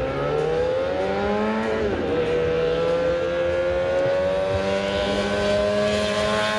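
Vintage race car engine accelerating hard: its pitch climbs, drops with a gear change about two seconds in, then rises slowly again through the next gear.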